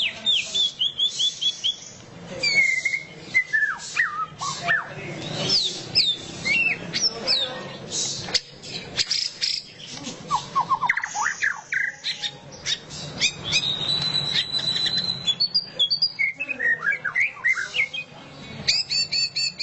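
White-rumped shama (murai batu) singing a loud, rapid chattering song ('ngeriwik') of quick sweeping whistles and trills, with a held high whistle in the middle and a fast stuttering run near the end.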